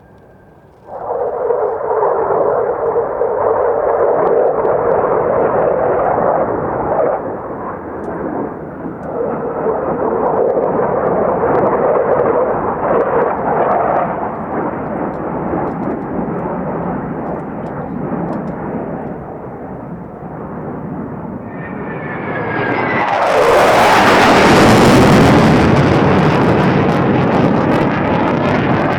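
F-4EJ Phantom jet fighter's J79 engines roaring overhead during a display, starting abruptly about a second in. The sound builds to a much louder, fuller pass near the end, with a falling whine as the jet goes by.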